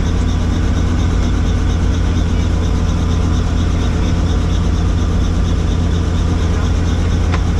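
Helicopter running in flight: a loud, steady low drone from rotor and turbine, with a fast, even pulsing from the blades.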